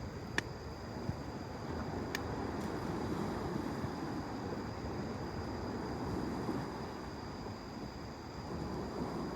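Waves washing in and out, a steady wash that swells and eases slowly, with a few sharp crackles and pops from a wood fire, the loudest about half a second in and about two seconds in.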